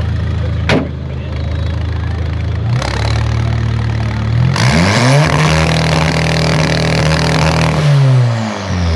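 Car engine idling, then revving up about four and a half seconds in, holding high for about three seconds and dropping back to idle. There is a short sharp click about a second in.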